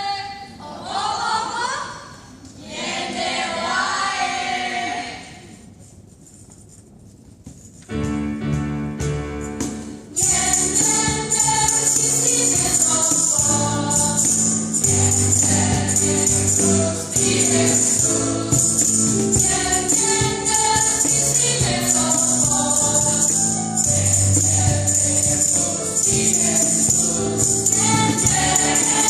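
Church choir singing a Christian song with instrumental accompaniment and a shaken tambourine jingling throughout. A voice is heard in the first few seconds, then comes a quiet pause, sustained chords enter about eight seconds in, and the full choir comes in about two seconds later.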